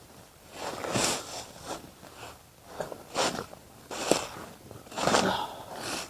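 Crunching and rustling steps through dry undergrowth, one about every second, uneven in spacing and loudness.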